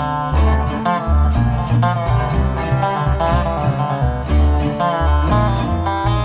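Live band playing an instrumental passage of a country-style song: plucked string instruments over a steady bass line, with no singing.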